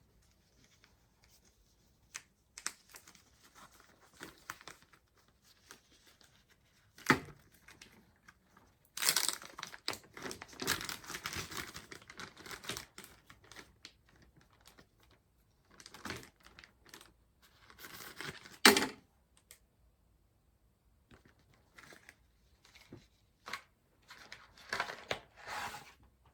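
Packaging being torn open and crinkled by hand in bursts of rustling, with a few sharp clicks. The loudest stretch is a few seconds of tearing and crinkling about a third of the way in.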